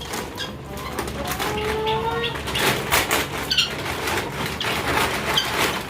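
Farmyard animal noises over rustling and knocks: a held call about a second and a half in, and a few brief high chirps later.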